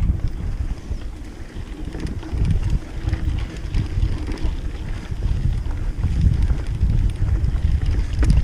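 Wind buffeting the microphone of an on-board camera on a mountain bike being ridden along a dirt trail, a gusty low rumble with a few faint clicks from the bike.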